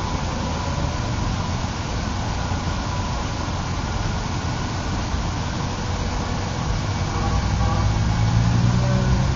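Twin electric motors and propellers of an RC airplane in flight: a faint, slowly wavering whine over a steady, noisy rumble, growing louder over the last couple of seconds.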